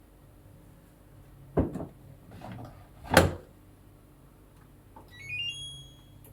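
Two heavy thumps, like a washing machine door being shut, the second louder, then a quick rising run of electronic beeps ending on a held note: the machine's power-on chime.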